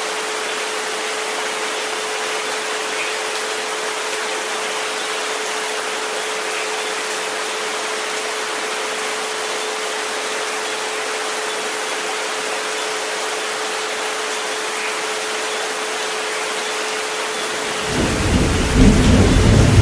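Steady rain hiss mixed with a continuous pure 432 Hz tone. Near the end, a loud low rumble of thunder rolls in.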